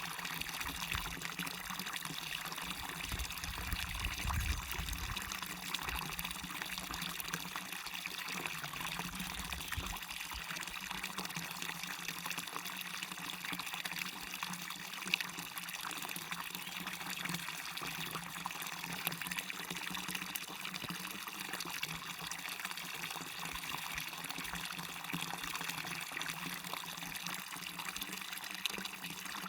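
Small waterfall on a stream, water falling and running in a steady, even rush.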